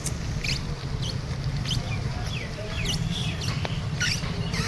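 Steady low rumble of a bicycle ride over a broken, damaged road, with short high squeaky chirps coming irregularly, several times over the few seconds.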